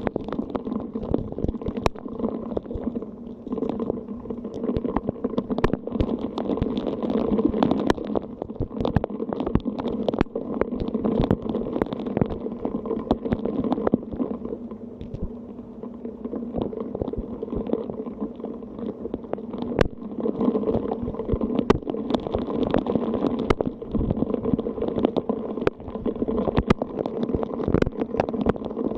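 Rain falling in a steady downpour, with many sharp drop hits, and wind gusting against the microphone in waves.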